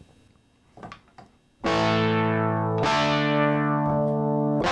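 Fender Rhodes electric piano played through an Electro-Harmonix Bass Mono Synth pedal set to its X-Fade mode. After a couple of soft clicks, a synth tone starts about a second and a half in and holds steady. It changes note about a second later and again near the end.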